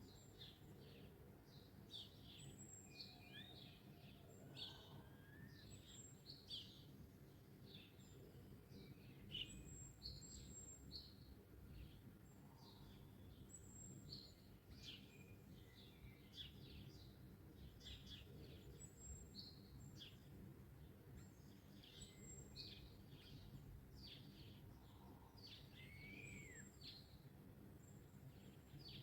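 Several songbirds chirping and whistling, short calls overlapping throughout, over a faint low background rumble.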